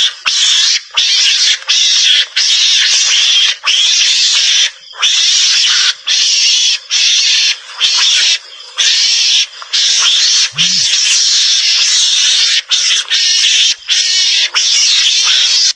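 Recorded Javanese mongoose (garangan) calls played as a hunting lure: loud, harsh rasping chatter in runs of about half a second to a second, broken by brief gaps.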